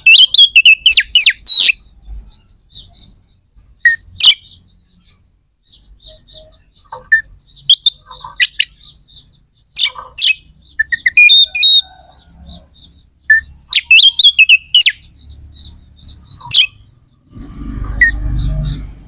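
A bird chirping close by in bursts of quick, high chirps and short trills, with pauses between the bursts. Near the end a low rumbling noise comes in under it.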